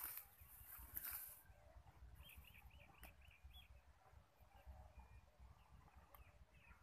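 Near silence, with a small bird singing a quick run of about seven chirps a couple of seconds in, and a few faint rustles and clicks.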